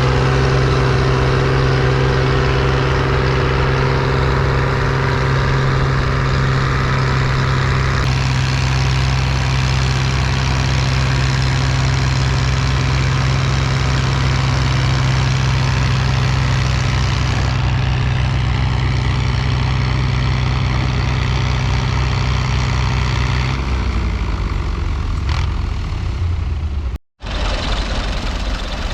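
Tractor diesel engine running at steady revs. Its pitch drops about three-quarters of the way through, and the sound cuts out briefly near the end.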